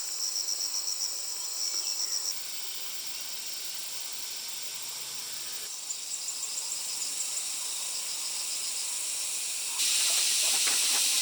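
Insects chirping in fast, even pulses over a steady high hiss. The sound changes abruptly several times, and near the end the hiss grows louder with scattered clicks.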